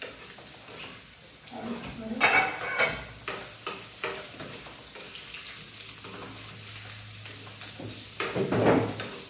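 Niuro (fiddlehead ferns) sizzling as they fry in a pan, with a utensil stirring and scraping against the pan. There are two louder bouts of stirring and scraping, one about two seconds in and one near the end.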